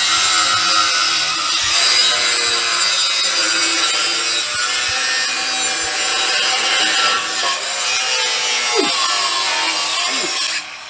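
Power tool cutting through metal exhaust pipe: a loud, steady cutting noise that stops suddenly near the end.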